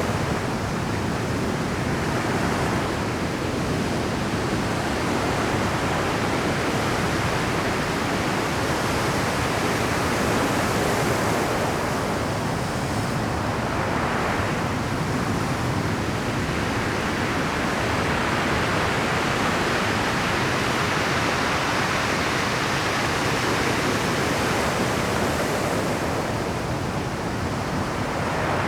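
Rough Pacific surf breaking continuously on a rocky shore at high tide, a dense wash of waves that swells and eases every few seconds.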